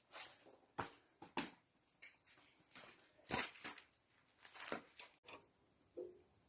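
Faint, scattered clicks and scrapes of hand tools and metal engine parts being handled during the strip-down of a Lister SR3 diesel engine, with a louder knock about three seconds in.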